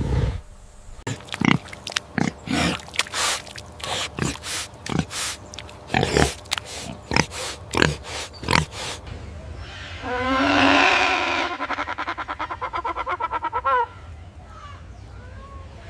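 An animal calling in a run of short, sharp calls, then a longer pitched call that breaks into fast pulses.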